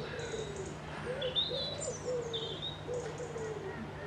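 Wild birds calling: repeated short low cooing calls, with higher chirps and whistled phrases from songbirds, over a steady low hum.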